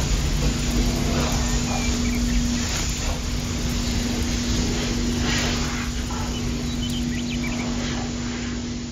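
A small electric water pump humming steadily under an even hiss of spraying and splashing water.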